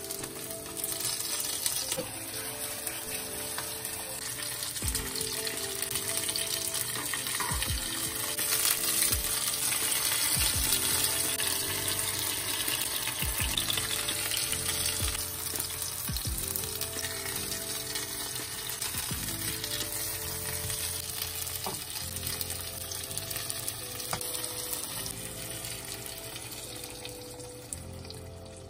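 Tomato slices sizzling in hot olive oil in a frying pan, loudest about a third of the way in and easing towards the end, with occasional taps of a metal fork against the pan as the slices are turned. Soft background music plays under it.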